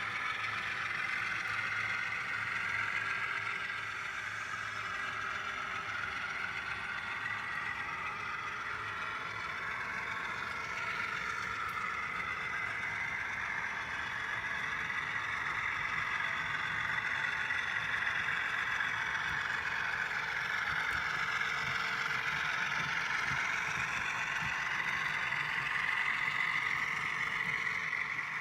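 Model AC44 diesel locomotive running on the layout, its engine sound steady and drifting slowly up and down in pitch.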